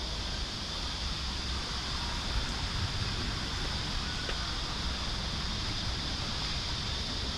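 Steady rain falling, an even hiss with a few faint drip ticks, over a low wind rumble on the microphone.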